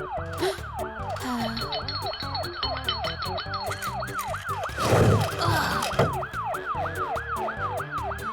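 Cartoon ambulance siren in a fast rising-and-falling yelp, about three cycles a second, over background music. A loud, brief rush of noise comes about five seconds in.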